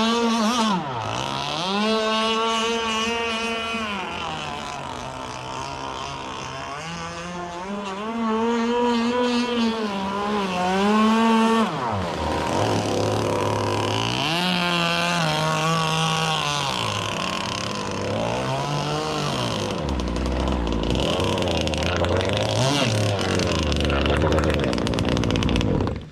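Gas RC boat's Zenoah two-stroke engine running on the water, its pitch climbing, holding high and dropping back again and again as the throttle is opened and closed on passes. The sound cuts off suddenly at the end.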